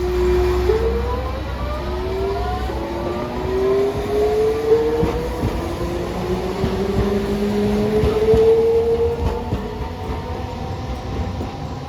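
Hiroden streetcar's electric traction motors and inverter whining as it pulls away, several tones rising in pitch in steps over about nine seconds, over a low rumble of the tram running.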